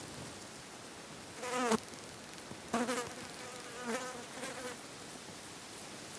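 A fly buzzing close to the microphone in four short passes, its pitch bending up and down as it comes and goes.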